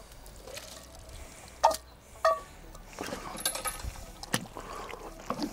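Sweetcorn being emptied from tins into a cooking kettle: two sharp, ringing metal clinks of a tin knocking on the kettle, then lighter scrapes and knocks.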